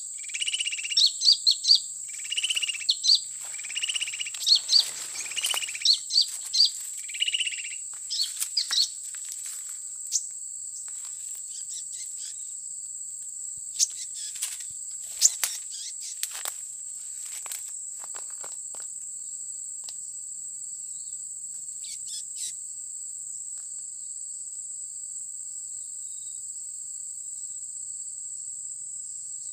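Small birds chirping in quick, high-pitched notes for the first several seconds, then only scattered calls. Under them a steady, high insect drone from crickets or cicadas.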